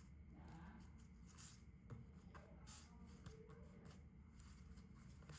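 Faint rustling and creasing of a sheet of A4 paper being folded by hand into a paper airplane, a few soft crinkles over a low background hum.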